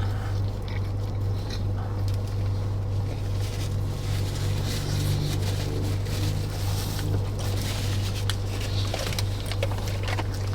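Steady low hum of an idling car engine heard inside the cabin, with small clicks and rustles from eating food.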